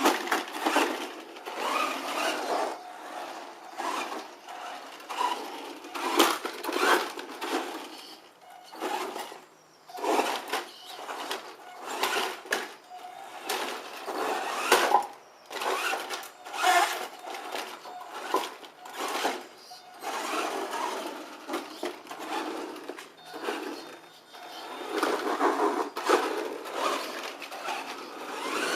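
A small motor and its gearing whirring in irregular bursts of one to three seconds, with frequent sharp knocks between them.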